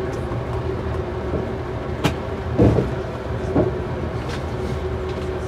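Passenger train running, heard from inside the carriage: a steady low rumble with a faint hum, one sharp click about two seconds in and two heavier knocks a moment later.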